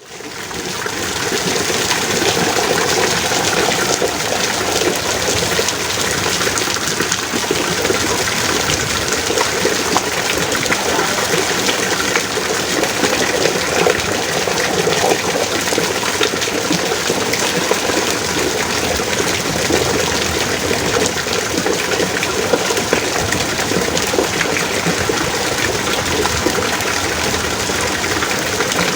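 Heavy rain pouring steadily, a dense even hiss that fades in over the first second.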